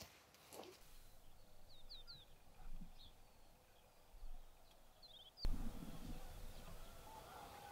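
Small birds chirping in short, quick high calls over quiet outdoor ambience. About five and a half seconds in, the background changes suddenly to a louder low rumble.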